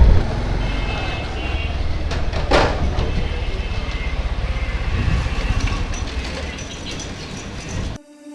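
Motorcycle ride on a road: a steady low engine and wind rumble with traffic around, and a brief whoosh about two and a half seconds in. The sound cuts off abruptly near the end.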